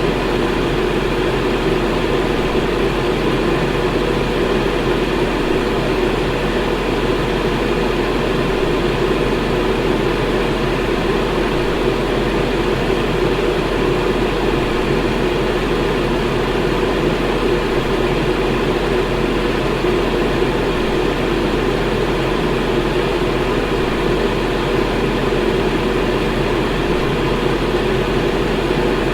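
Electric fan running steadily: an even whooshing hum, strongest in the low-mid range, with a faint motor hum beneath.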